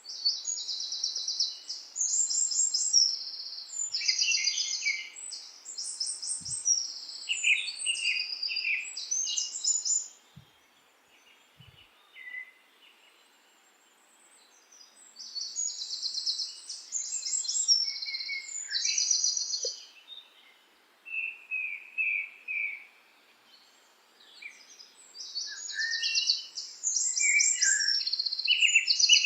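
A songbird singing in long bouts of rapid, high-pitched trills and chirps, with quiet pauses of a few seconds between bouts.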